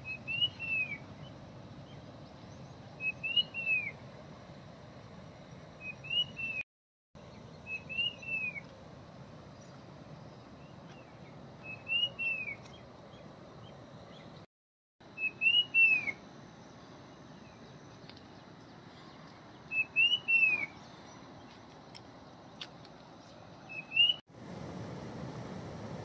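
A bird calling over and over, about every three to four seconds: a short note followed by a whistled call that rises and then drops, over a faint steady hiss. The sound cuts out briefly three times, and near the end a louder steady rush of flowing water takes over.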